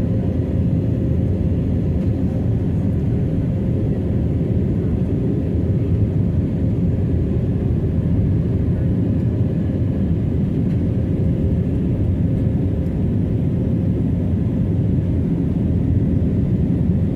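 Airbus A320 airliner running: a steady, heavy low rumble with a faint steady hum over it.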